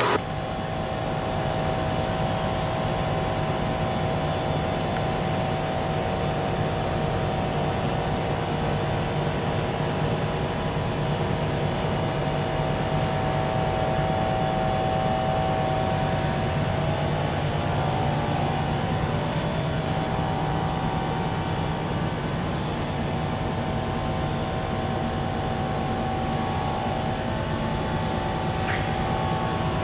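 Steady mechanical drone with a constant hum.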